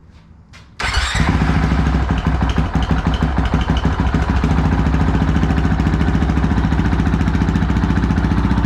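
2019 Honda CRF450L's single-cylinder four-stroke engine, breathing through a full Yoshimura exhaust, cold-started: it fires about a second in and runs loud. The beat is uneven at first and settles into a steady, even idle after a few seconds.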